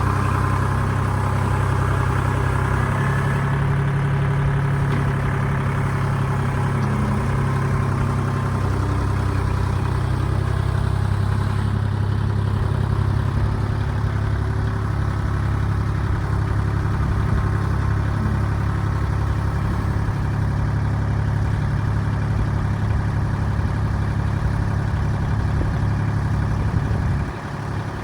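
Tractor engine running steadily at a constant speed. It quietens about a second before the end.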